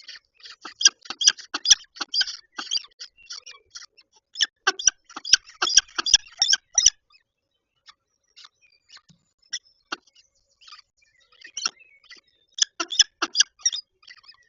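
Peregrine falcons at the nest ledge, picked up by the nest-box microphone: rapid runs of short, sharp chips and scratchy clicks. They stop about halfway through and come back in a second short flurry near the end.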